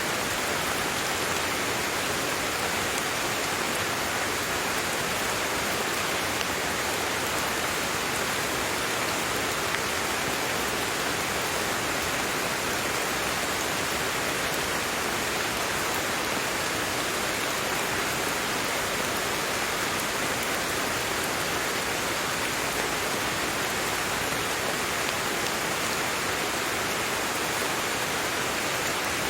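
Steady rain falling, an even hiss of many drops with no distinct patter or thunder.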